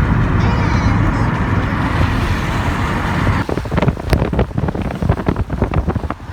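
Steady road and engine noise of a moving car. About halfway through it changes abruptly to irregular crackling gusts of wind buffeting the microphone.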